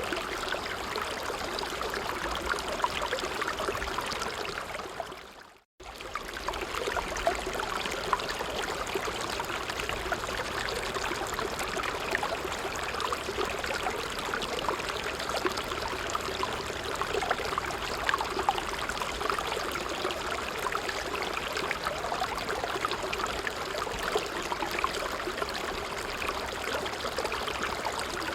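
A stream running steadily over stones, with a busy trickling and bubbling. About five seconds in, the sound fades out to a brief silence and comes straight back.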